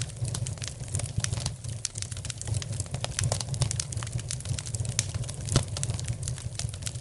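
Fire in a fireplace crackling, with many irregular sharp pops over a steady low rumble; the loudest pop comes about five and a half seconds in.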